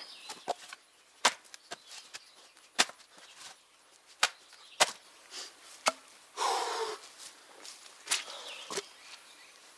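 Splitting maul striking birch rounds: a series of sharp cracks about every second and a half, with a brief scraping rustle about two-thirds through.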